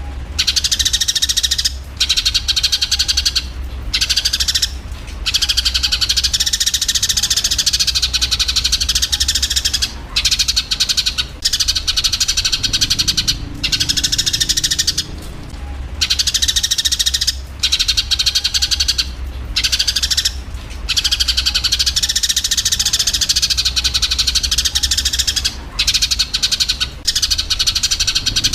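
Eurasian tree sparrows chirping rapidly and harshly in a squabbling, fighting chorus, in long runs broken by short pauses every couple of seconds. A steady low hum lies underneath.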